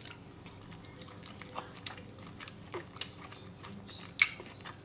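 A person chewing and biting tandoori chicken close to the microphone: scattered small wet clicks of mouth sounds, with one louder smack about four seconds in.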